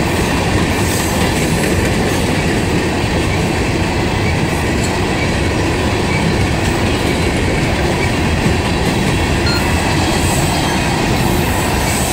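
A freight train of hopper cars rolling past, with a steady rumble and clatter of steel wheels on the rails.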